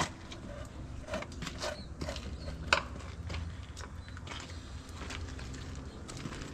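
Irregular clicks and clinks of hand tools working on metal machine parts, with one sharper knock a little under three seconds in, over a steady low hum.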